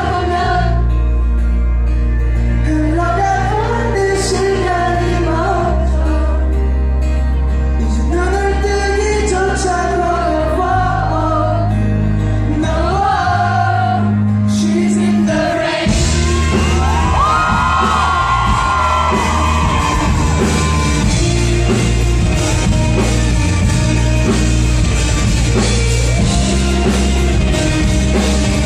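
Live pop-rock band performance with a male lead vocalist singing over bass and drums. About halfway through, the singing drops out and the full band comes in louder.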